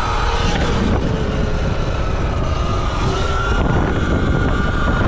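Motorbike engine running under throttle, its note easing off and then rising again about three and a half seconds in, with wind buffeting the microphone.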